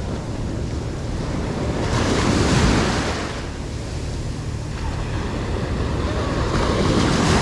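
Ocean surf breaking and washing up the beach, the wash swelling twice: about two seconds in and again near the end. Wind buffets the microphone with a low rumble throughout.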